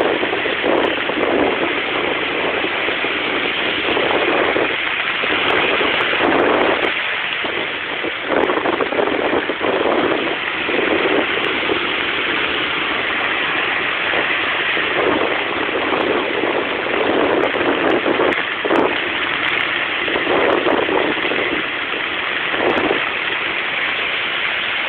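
Rough sea surf: waves breaking and washing up the shore in a continuous loud rush, surging every second or two.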